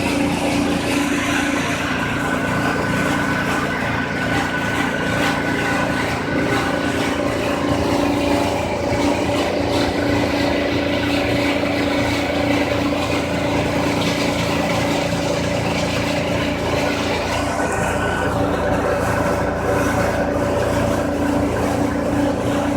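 Compressed-air dryer vent cleaning equipment running steadily: a constant motor hum with several fixed tones over rushing air noise.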